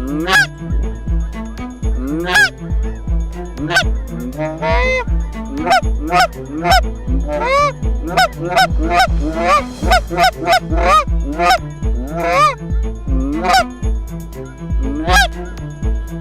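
Rapid, repeated goose honks and clucks throughout, over background music with a steady thumping beat.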